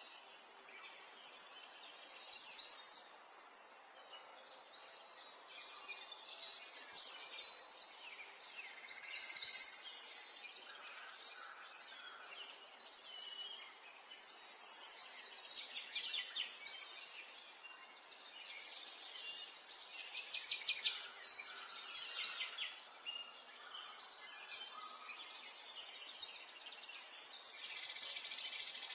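Songbirds singing outdoors: high, rapid trilling phrases that repeat every couple of seconds over a faint steady background hiss.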